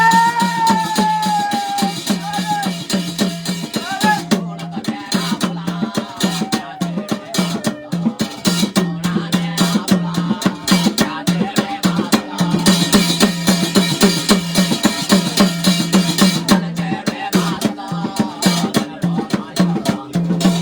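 Instrumental passage of a Garhwali jagar devotional song: fast, dense drumming over a steady low drone. A held, slightly bending note sounds at the start and fades about two seconds in.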